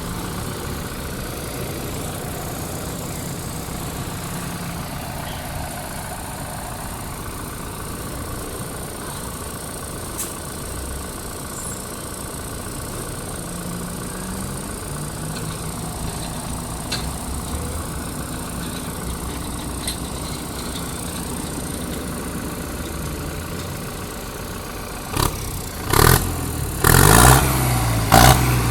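Heavy diesel machinery running steadily. Several loud sharp knocks and clanks come in the last few seconds, and the engine note grows stronger under them.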